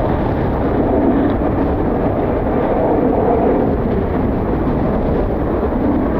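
Jet airliner's engines rumbling on departure, swelling in the middle, with strong gusty wind buffeting the microphone.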